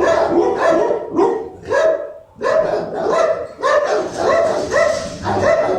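Dog barking over and over in a fast, even run of short barks, about two to three a second, with a brief pause about two seconds in.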